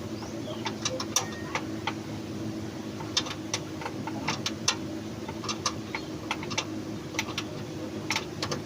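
Hand tools clicking and tapping on metal at irregular intervals over a steady low hum.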